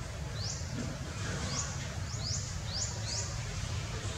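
A small bird calling repeatedly: short, high chirps that each sweep upward, about two a second at uneven spacing, over a steady low rumble.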